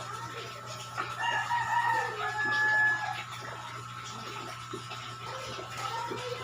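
A rooster crowing once, starting about a second in and lasting about two seconds, ending on a long held note.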